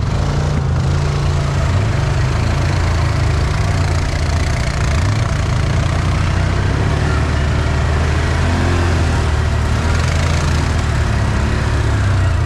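ATV engine running steadily at low revs, its low note shifting a little now and then, with a steady rushing noise over it.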